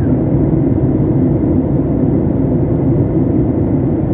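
Steady low rumble of airliner cabin noise on descent: engine and airflow noise heard from inside the passenger cabin.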